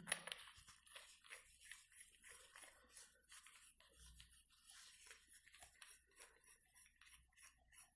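Near silence with faint, scattered small clicks and taps, with one slightly louder tick at the start: the metal parts of a motorcycle crankshaft gear puller being handled and fitted together.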